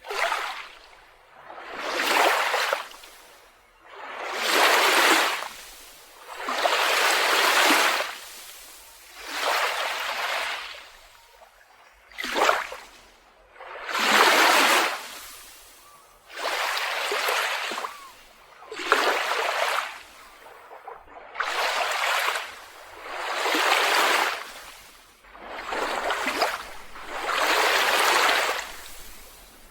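Small waves washing onto a beach: a surge of surf swells and fades away about every two seconds.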